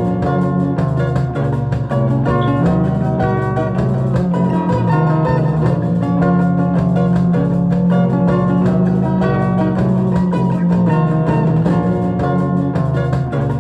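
Instrumental music led by a plucked guitar: quick picked notes over a steady bass.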